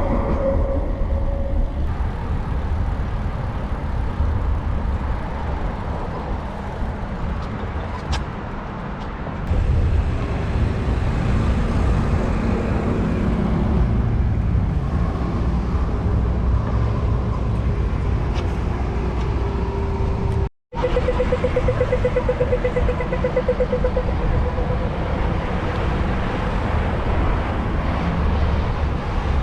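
Wind rushing over the microphone of a bicycle-mounted camera, mixed with the steady noise of passing road traffic. The sound drops out for a moment about two-thirds of the way through.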